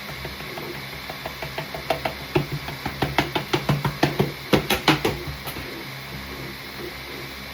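A rapid run of sharp clicks or taps, a few per second, growing louder and quicker until about five seconds in, then stopping.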